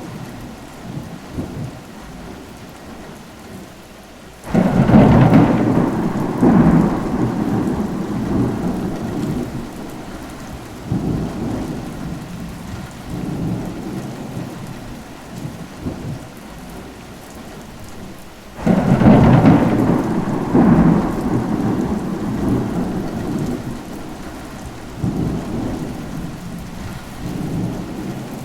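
Steady rain with thunder: two sudden claps, one about four seconds in and another near the middle, each rolling off into a rumble that fades over several seconds.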